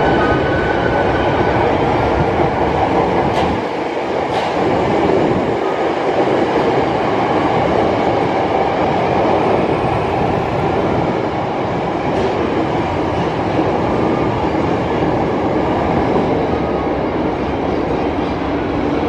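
Hankyu 7300 series electric train running through an underground station without stopping: a loud, steady rumble of wheels on rail and traction motors, echoing off the tunnel and platform walls, as it approaches, passes and pulls away. Two sharp clicks come about three and a half and four and a half seconds in.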